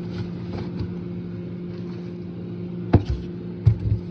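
A steady low electrical hum, with a few sharp knocks and thuds about three seconds in as frozen food packages are handled in the freezer.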